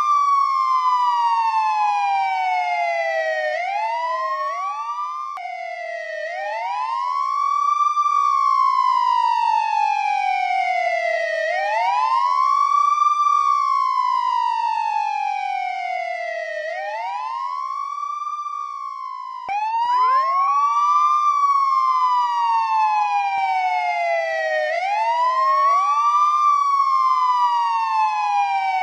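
Police escort (patwal) siren wailing. Each cycle is a quick rise and a slow fall in pitch, repeating about every five seconds, with two wails overlapping slightly out of step. The siren breaks off abruptly and restarts about five seconds in and again near twenty seconds in.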